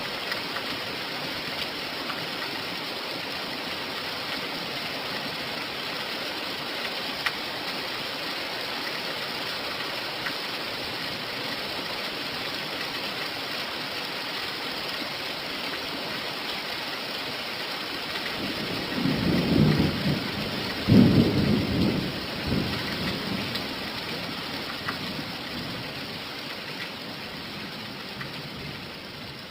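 Steady rain falling, an even hiss, with a roll of thunder rumbling in several surges about two-thirds of the way through. The rain eases slightly near the end.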